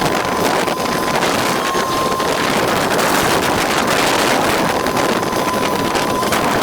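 Small tour boat's motor running steadily under way, with water rushing past and wind buffeting the microphone; a thin, steady whine runs through it.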